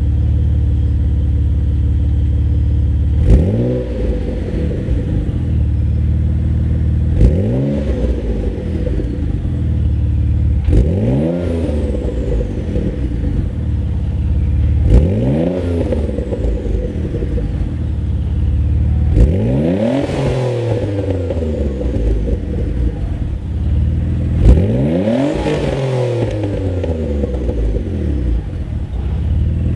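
Mitsubishi 3000GT VR4's twin-turbo 3.0 L V6 through a Tanabe Medalion Touring cat-back exhaust, idling steadily and then blipped about every four seconds, each rev rising sharply and falling back to idle. The later revs go higher and last longer.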